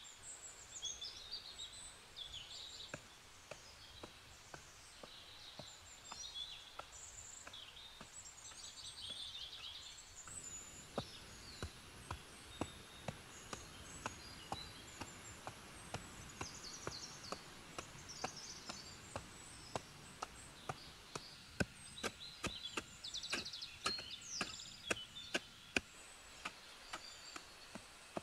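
Forest birds singing and chirping continuously. From about a third of the way in, a series of sharp knocks, roughly one or two a second, are the loudest sounds, and a thin steady high whine runs for about ten seconds.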